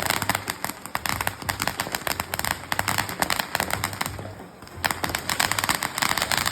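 Ground fireworks crackling: a dense, rapid run of small pops, easing off briefly about four seconds in and then picking up again.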